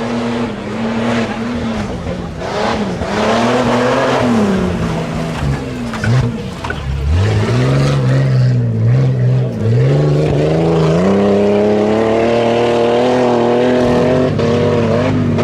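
A tuff truck's engine revving hard on a dirt obstacle course, its pitch swinging up and down with the throttle, dropping low about halfway through, then climbing and holding high near the end.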